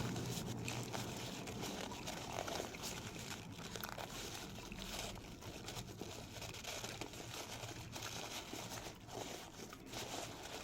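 A person eating chicken wings: faint chewing with many small scattered clicks and crinkles.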